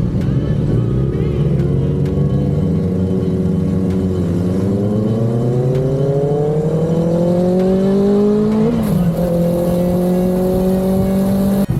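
Motorcycle engine pulling hard under acceleration, its pitch climbing steadily, dropping at gear changes about four seconds in and again near nine seconds, then holding at a steady cruise.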